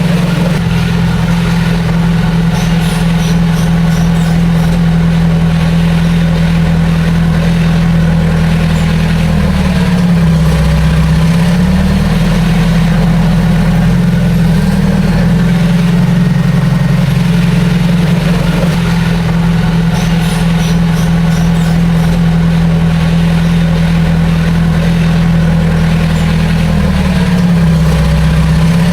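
Heavy diesel engine of construction machinery running steadily, its pitch dipping briefly and recovering twice, about ten seconds in and near the end.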